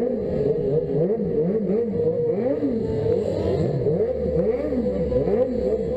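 Superbike motorcycle engines revving up and down over and over, the pitch rising and falling more than once a second, with a steady engine note held underneath, as the bikes are spun in donuts.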